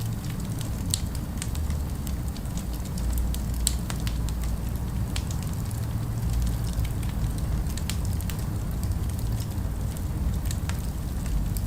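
Fire crackling, with irregular sharp pops and snaps scattered through, over a steady low rumble of city ambience.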